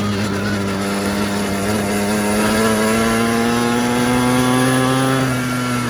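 Small carburetted petrol quad bike engine running under way, its pitch climbing steadily for a few seconds as it speeds up, then dropping back suddenly near the end as the throttle eases.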